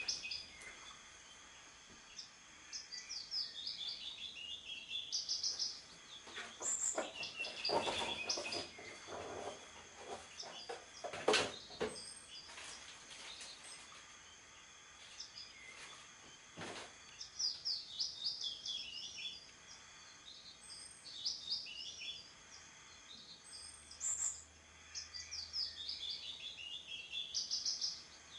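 A songbird singing short, repeated phrases of quick high notes that fall in pitch, a phrase every few seconds with a gap in the middle. A few sharp knocks come in between, the loudest about eleven seconds in.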